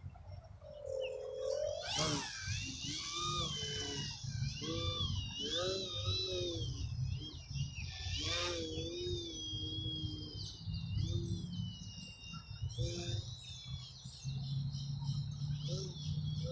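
Electric motor and propeller of a Multiplex Parkmaster 3D foam RC airplane whining in flight, its pitch repeatedly rising and falling as the throttle is worked through aerobatic manoeuvres, over a steady low rumble of wind on the microphone.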